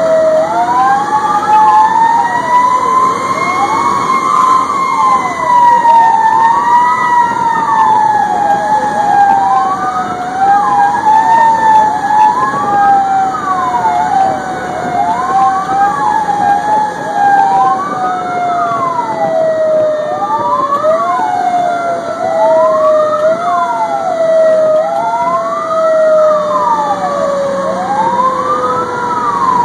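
Fire engine sirens sounding together. One siren winds up over the first few seconds and then falls slowly and steadily in pitch, while a second sweeps up and down about every two seconds.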